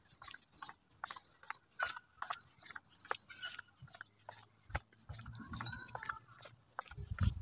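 Birds chirping in scattered short calls, with a few brief low rumbles about five seconds in and again near the end.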